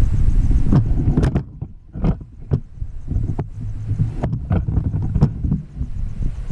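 A loud low rumble that drops away about a second in, followed by a run of sharp knocks and clicks over a fainter rumble.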